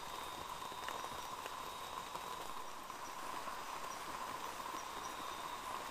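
Rain falling steadily in tropical forest at night, with a constant insect chorus droning over it and scattered drips ticking.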